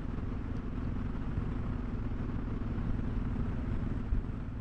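Suzuki DR650's single-cylinder engine running steadily as the motorcycle cruises along a highway.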